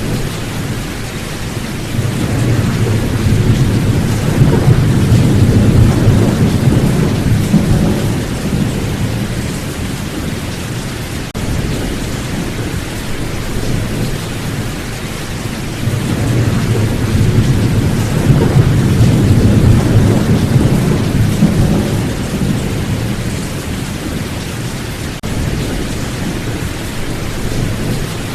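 Steady rain with thunder rolling twice; each low rumble swells and fades over several seconds.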